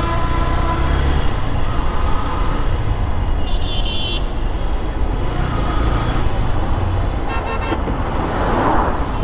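City road traffic heard from a moving motorcycle: a steady low rumble of road and wind, with a short vehicle horn toot about three and a half seconds in and a rapid series of horn beeps a little past seven seconds.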